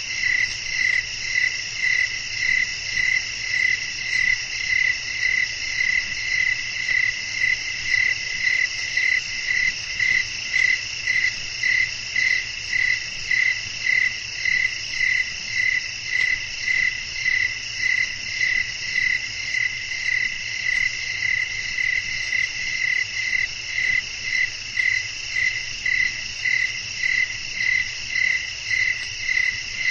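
Crickets chirping at night: one loud call pulsing about one and a half times a second over a steady, higher chorus of trilling insects.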